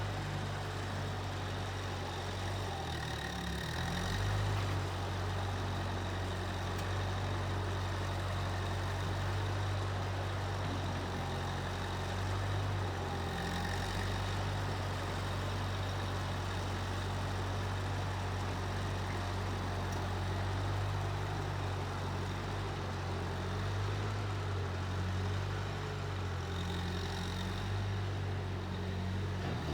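Case 1530 Uni-Loader skid steer's engine running steadily with a low, even hum, dipping briefly and picking back up about four seconds in.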